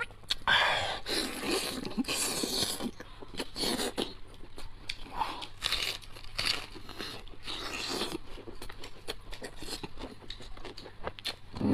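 A person chewing and biting mouthfuls of braised pork rib close to the microphone, an irregular run of short eating noises with no pauses of any length.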